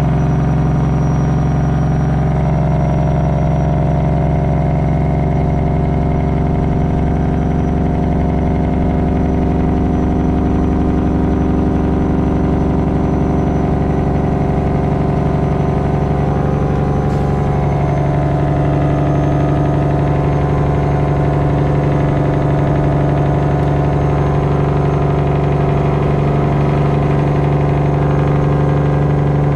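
Straight-piped Detroit diesel of a Freightliner Classic XL running loud and steady on its Jake brake (engine brake) down a long mountain grade, its pitch shifting a little about halfway through.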